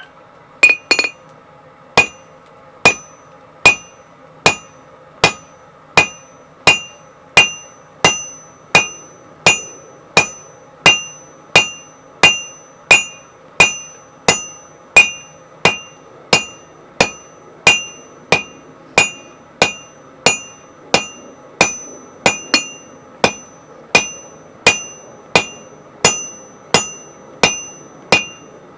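Blacksmith's hammer striking steel stock on an anvil at a steady pace of a little more than one blow a second, each blow ringing. A steady hum runs underneath.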